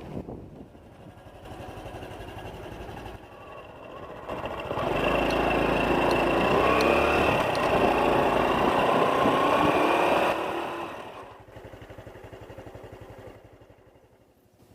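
Honda Cross Cub's single-cylinder four-stroke engine running as the bike is ridden. From about five seconds in it grows much louder, with a slowly rising pitch as the bike speeds up. Just after ten seconds it drops back to a quieter run.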